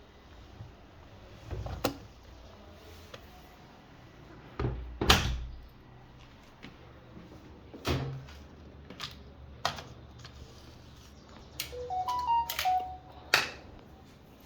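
Scattered knocks and clicks from handling a Bosch washing machine, with a short run of electronic beeps at different pitches near the end, typical of its control panel.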